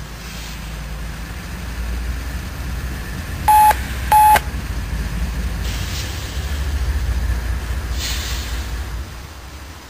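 Low rumble of an approaching diesel freight train. About three and a half seconds in come two short, loud electronic beeps, under a second apart.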